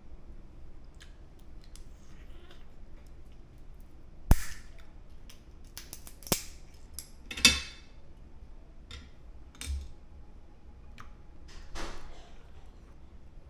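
Steamed blue crab shell and legs being cracked apart for the meat: a few sharp snaps, the loudest about four seconds in and others around six and seven and a half seconds, with lighter cracks and clicks between.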